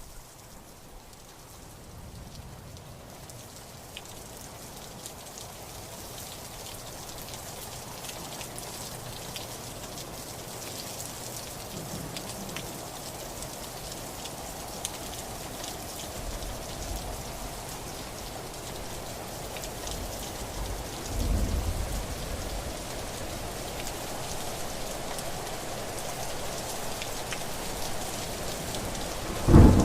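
Steady rain, growing gradually louder, with a low rumble of thunder about two-thirds of the way in and a loud crack of thunder starting at the very end.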